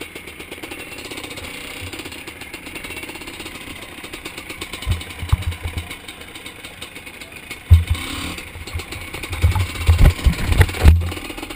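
Zabel 700 two-stroke sidecar-cross engine running steadily at low revs. A few heavy low thumps about five seconds in, and a cluster of them from about eight to eleven seconds, are the loudest sounds.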